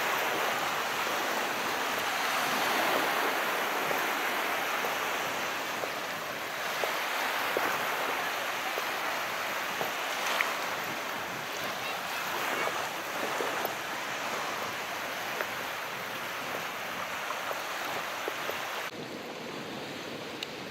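Calm sea: small waves washing and fizzing onto shore in a steady hiss, with faint scattered crackles and gentle swells in level, thinning somewhat near the end.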